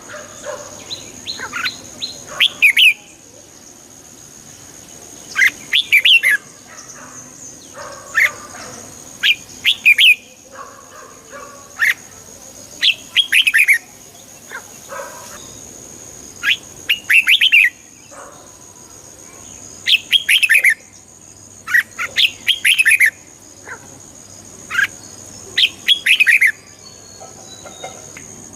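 Red-whiskered bulbul singing short, loud, chirpy phrases, repeated every two to three seconds with brief pauses between, as used to rouse caged bulbuls.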